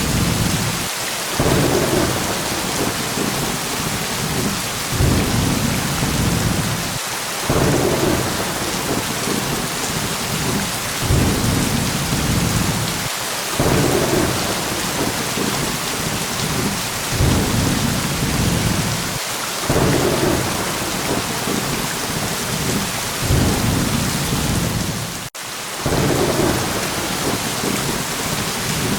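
Heavy rain pouring steadily with low thunder rumbling underneath, the rumble swelling and breaking off about every six seconds, with one brief drop about 25 seconds in.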